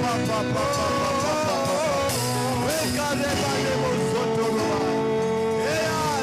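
Slow worship music: a singing voice wavers over long held instrumental notes.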